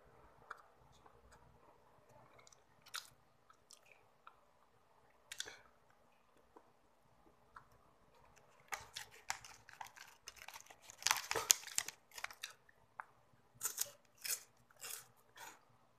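Close-up mouth sounds of chocolate snacks being eaten: soft, sparse chewing with the mouth closed, then a dense run of crackling and crunching a little past halfway. Near the end come crisp bites into a chocolate wafer stick, with crunchy chewing about every half second.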